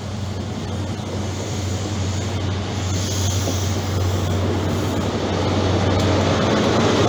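A GWR High Speed Train passing close by: the Mark 3 coaches rumble over the rails over a steady low diesel hum, all growing louder as the Class 43 power car draws near.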